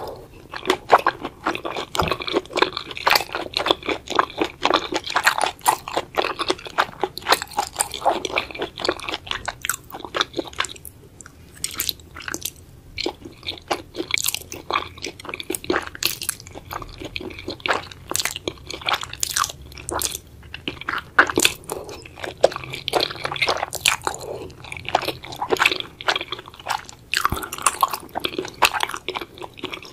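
Close-miked chewing of spicy braised octopus and other seafood: a dense run of small crunching and chewing mouth noises, easing off briefly about a third of the way through.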